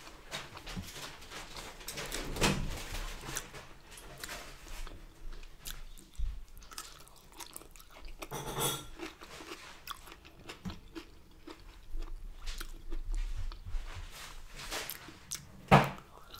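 A person chewing and biting food, with irregular crunches and wet mouth clicks and a few louder bites.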